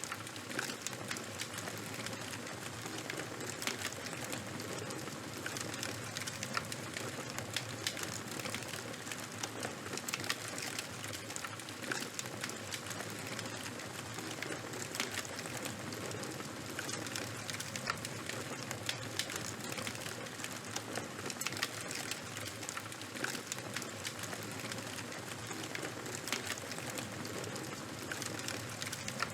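Fire crackling steadily: a constant hiss with many small, irregular pops and snaps.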